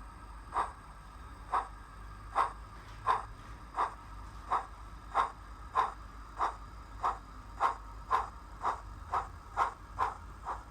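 Steam locomotive exhaust chuffs from a Zimo DCC sound decoder playing a Drummond 700 Class sound file through a small speaker in a model locomotive, beating evenly and getting steadily quicker as the locomotive picks up speed.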